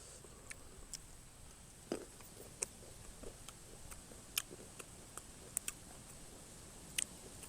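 Faint, wet chewing and mouth clicks of someone eating a leaf-wrapped miang of cluster figs, with a few sharper clicks scattered through.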